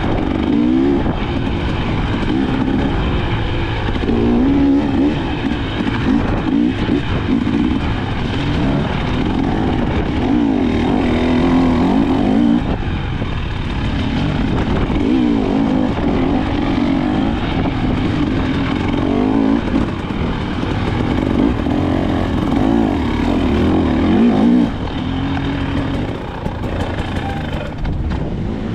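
KTM 300 XC-W's two-stroke single-cylinder engine being ridden hard, its revs climbing and dropping again every second or two. The level dips a little for a few seconds near the end.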